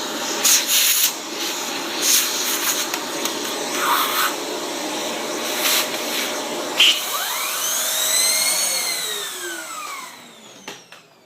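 Shark Rotator upright vacuum running, sucking dirt off the vacuum's own body, with scattered clicks and rubbing as the nozzle works over it. Late on, a whine sweeps up and then down in pitch, and the motor winds down near the end.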